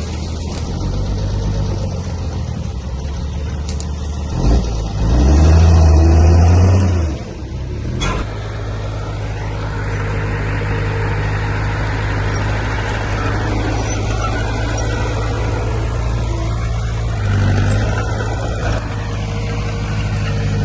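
Heavy earthmoving machinery's diesel engine running steadily. It revs up loudly for about three seconds around 5 s in, a single sharp knock follows, and then it runs on with a rougher, noisier sound.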